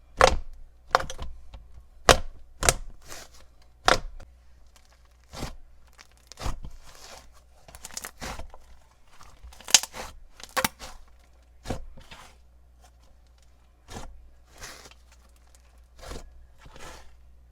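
Slime being played with by hand, giving a string of sharp pops and crackles at irregular intervals, roughly one a second.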